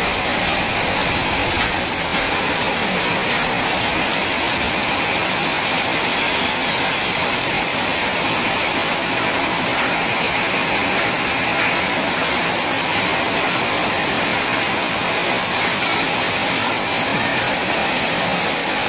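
Heavy rain in a steady downpour, with runoff streaming off the edge of a sheet roof.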